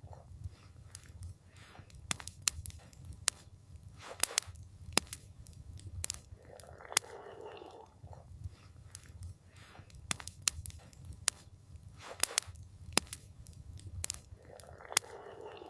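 Campfire crackling: sharp, irregular pops and snaps over a low steady rumble, with a short soft hiss about every eight seconds.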